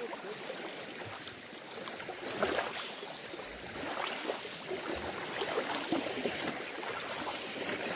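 Water splashing and gurgling around a kayak as it is paddled: irregular paddle splashes and drips.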